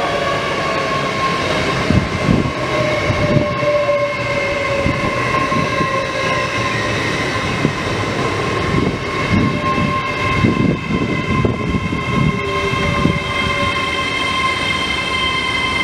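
LNER Azuma high-speed train passing at speed: a steady rush of wheels on rail and air, with a continuous high whine, and a run of low thumps from the wheels through the middle of the passage.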